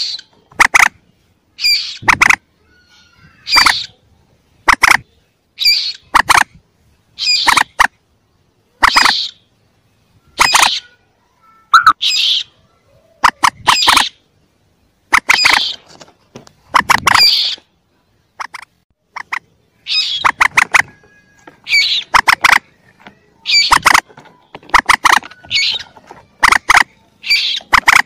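Young common moorhens calling: short, sharp calls repeated about once a second, a looped bird-lure recording played to draw moorhens in.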